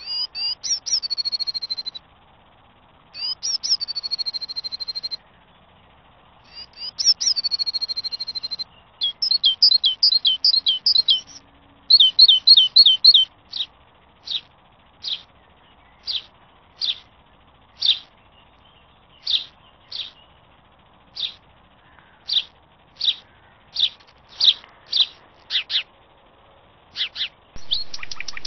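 Songbird singing: a few short whistled phrases, then a quick run of notes around ten seconds in, then single sharp notes about one a second, with a fast flurry near the end.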